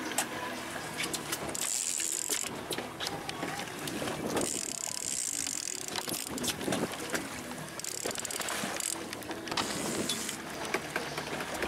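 Fishing reel being cranked and its drag giving line in spells while a salmon is played toward the boat, with many sharp clicks from the reel mechanism.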